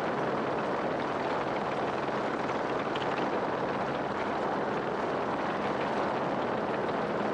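Steady vehicle engine noise with a low hum, unchanging throughout.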